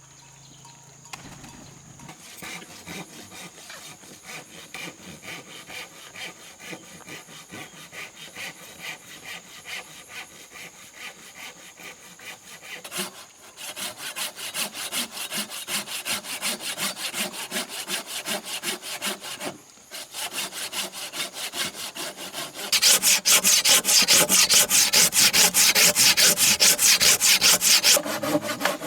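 Hand saw cutting through wood with steady back-and-forth strokes, about three a second. The strokes grow louder partway through and are loudest near the end, with a brief pause about two-thirds of the way in.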